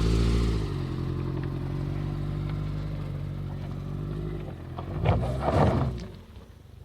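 Subaru Forester's flat-four boxer engine running steadily, then a louder, noisier burst with some clatter about five seconds in before the sound fades.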